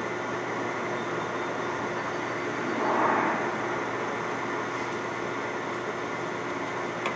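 LeBlond Regal 32-inch engine lathe running under power with its carriage on power feed: a steady machine running sound, swelling louder for about half a second three seconds in, with a sharp click near the end.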